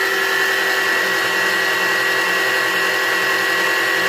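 Small metal lathe running steadily with a constant high motor whine, taking a light cut of a few ten-thousandths in an aluminum ring blank.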